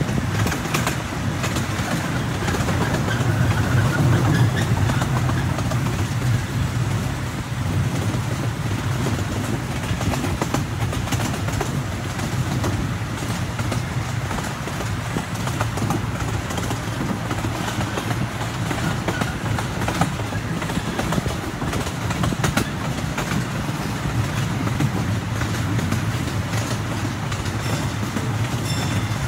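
Open passenger car of a small amusement-park train rolling along the track: a steady low rumble with a few sharp clicks from the wheels on the rails.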